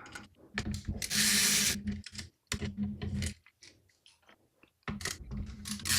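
Small hardware parts being worked off a PC motherboard by hand: a series of light clicks and taps, with a brief scraping rustle about a second in.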